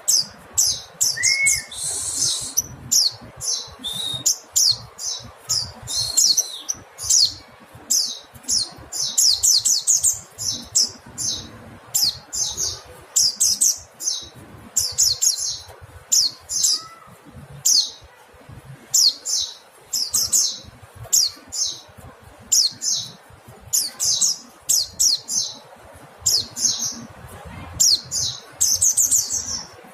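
Mountain white-eye (pleci montanus) calling: clusters of short, high chirps, one quick run after another with brief gaps between.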